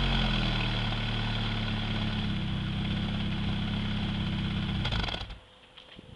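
Opel Astra GSi's C20XE 2.0-litre 16-valve four-cylinder idling steadily through an FK-Automotive aftermarket exhaust, then stopping about five seconds in, leaving only faint ticks.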